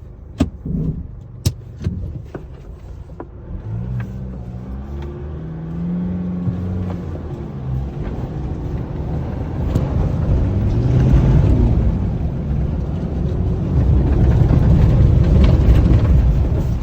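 Nissan NP300 pickup's engine pulling under load in four-wheel-drive low through a river crossing, the engine note rising and falling, with a few sharp knocks in the first seconds and a louder rushing rumble building through the second half.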